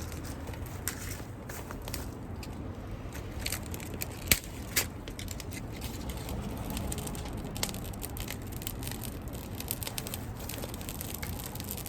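Crackling and popping from a pan of broccoli and salami frying over a wood campfire: a steady stream of small sharp pops, with two louder cracks a little after four seconds.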